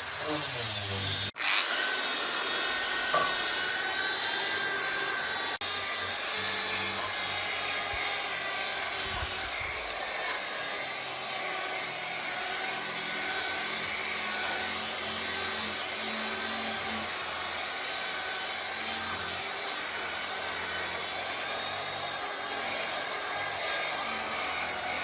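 A handheld power tool running steadily against wood, a continuous abrasive working noise with a faint wavering motor whine, broken by abrupt cuts about a second in and again about five seconds in.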